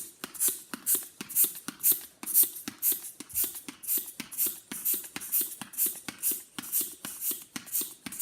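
Hand pump inflating a long twisting balloon: quick regular strokes, about two a second, each pushing out a hissing puff of air.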